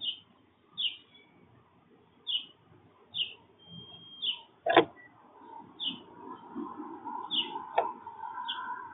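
A small songbird chirping repeatedly, short high calls roughly once a second. Two sharp knocks come about halfway through and near the end, and a fainter, lower steady sound runs under the second half.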